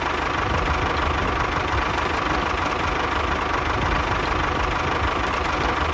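Small motor running steadily with a constant whine, from a homemade mini tractor or bulldozer model at work.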